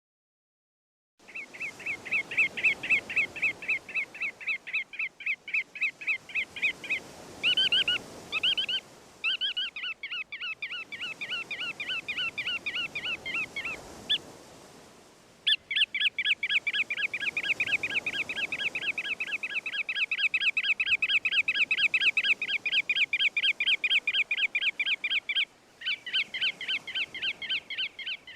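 A songbird singing long, fast trills of evenly repeated notes, in several runs of a few seconds each with short breaks between them, over a soft rushing background.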